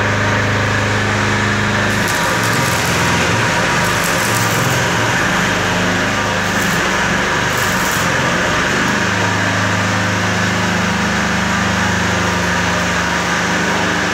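A machine running steadily, a low hum with a higher whine over it, with a few short hissing bursts through the middle.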